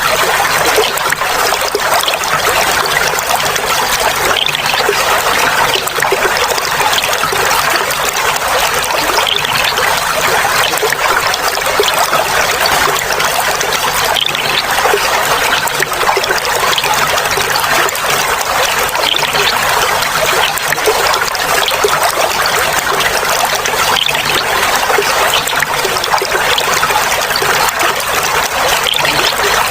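Clear running water trickling and babbling steadily, a light splashing sound without deep rumble.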